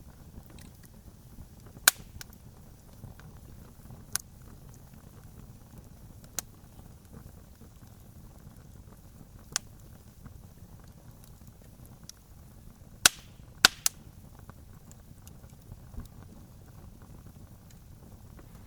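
Campfire crackling: the flames give a steady low rumble, with sharp wood pops every couple of seconds. The loudest pops come as a quick cluster of three about two-thirds of the way through.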